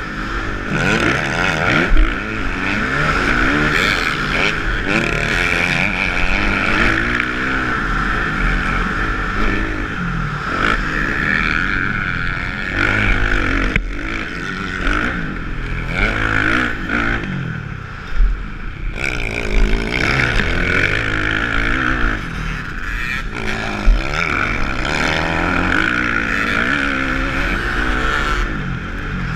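Kawasaki motocross bike's engine being ridden hard, its pitch rising and falling over and over as the throttle is opened and shut, with a few sharp thumps along the way.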